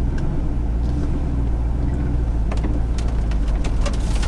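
Lamborghini Countach replica under way, its engine and road noise making a steady low drone. Occasional sharp ticks come in the second half, as grit and debris are kicked up into the wheel wells.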